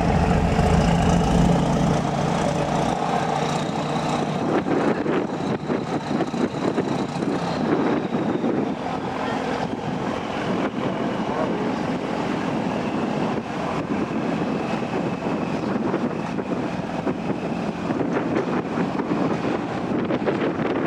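Steady engine drone of a roll-on/roll-off ferry, with wind buffeting the microphone. A deep engine hum drops away about two seconds in, leaving the drone and the flutter of wind.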